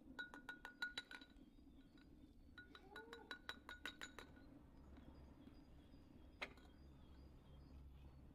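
Two quick runs of light metallic clinks, about eight to ten strikes each with a short ring at the same pitch, then one single clink near the end: a kitchen utensil striking metal or glass.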